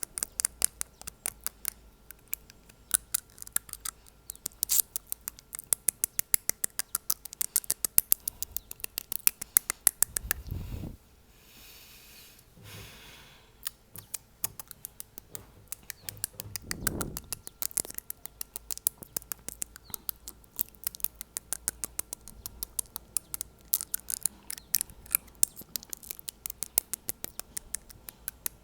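Fingernail tapping on teeth close to the microphone: rapid sharp clicks, several a second, pausing briefly a little before halfway. Two low whooshes of blown air come in, one just before the pause and one about two-thirds of the way through.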